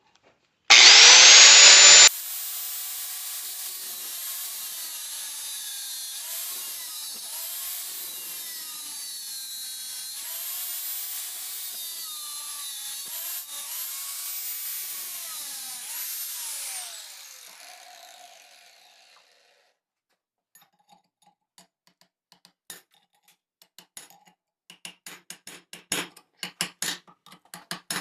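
Small high-speed electric power tool cutting a part off an alternator, its motor whine dipping and recovering in pitch as it bites in, after a very loud brief burst about a second in. The tool winds down about two-thirds of the way through, followed by light clicks and taps near the end.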